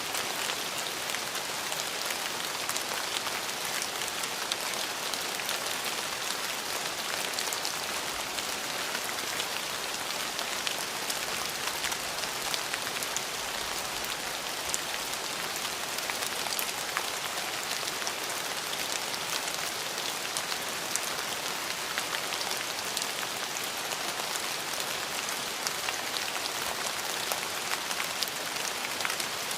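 Steady rain falling, a constant hiss with many small individual drops ticking on a surface.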